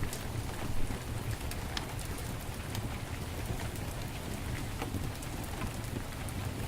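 Heavy rain falling steadily, with a wood fire crackling in scattered sharp pops, one louder pop about a second in.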